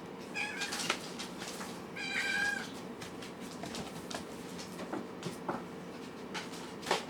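A kitten mewing: a short high-pitched mew near the start, then a longer one about two seconds in, with light clicks and taps between.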